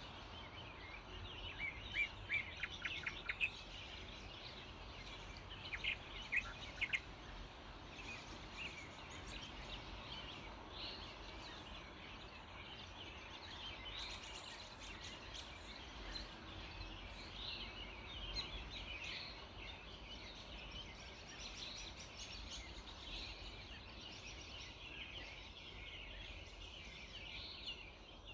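Early-morning chorus of many small songbirds: a run of sharp, loud chirps in the first few seconds, then dense, continuous twittering over a faint low background rumble.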